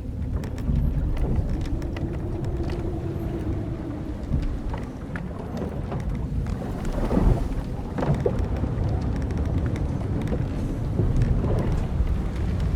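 Wooden hull and rigging of an old sailing ship creaking over a low rumbling wash of sea and wind, with a long drawn-out creak a couple of seconds in, more creaking past the middle, and small scattered clicks.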